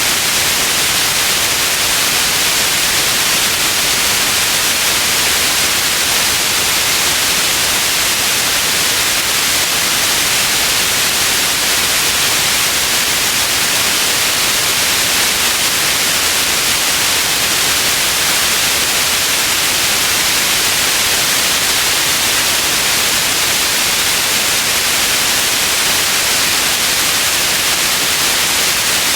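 Steady, even white noise hiss, bright and high-pitched, without any change.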